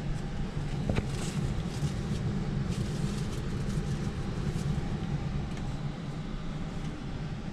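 Heat pump system running in heat mode, a steady low hum, with a sharp click about a second in and some light rustling after it.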